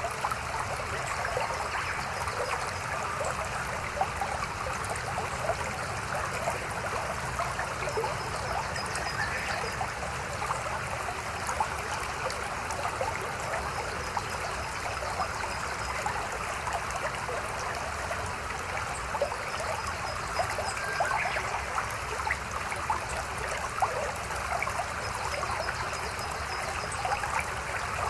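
A small mountain stream babbling steadily over rocks: an even rush of water scattered with little splashes and trickles.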